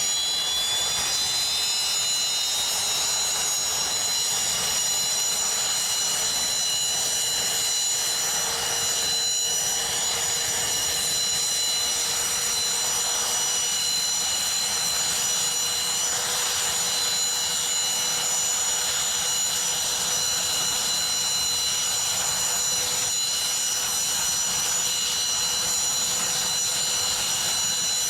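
The Mi-26 helicopter's two D-136 turboshaft engines running, with the rotor turning. Their high whine climbs in pitch over the first few seconds, then holds steady over a constant rush.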